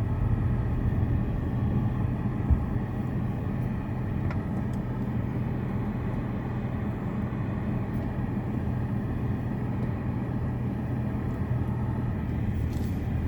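A steady low mechanical rumble and hum, like an engine running, with a small knock about two and a half seconds in.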